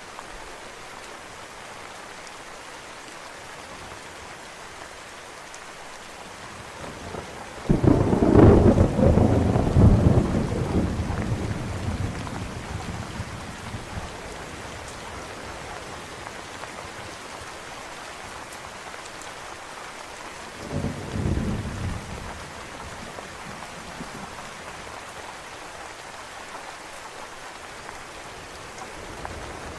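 Steady rain with thunder: a loud clap about a quarter of the way in rolls off over several seconds, and a shorter rumble follows past the middle.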